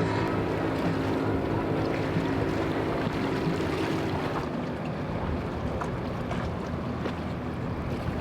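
Motorboat engines running steadily as boats pass through the inlet, with wind on the microphone and surf underneath; the engine's higher tones fade about halfway through.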